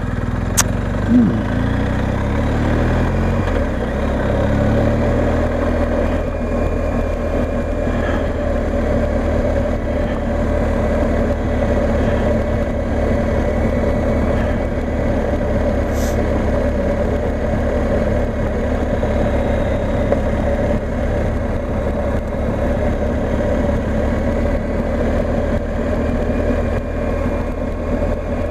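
BMW R 1250 GS Adventure's boxer-twin engine running as the bike rides along, its pitch shifting over the first few seconds and then holding steady.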